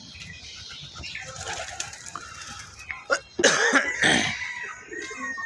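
A cat giving a loud, harsh hiss about three and a half seconds in, during a cat fight.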